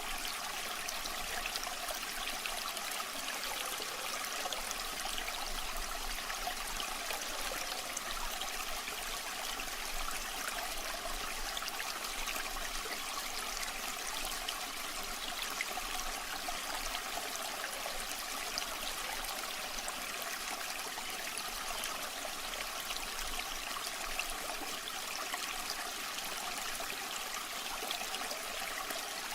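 Water from a waterfall rushing and splashing steadily, an even hiss with little deep rumble.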